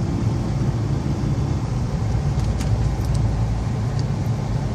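Steady low drone of a truck's engine and road noise, heard from inside the cab while driving.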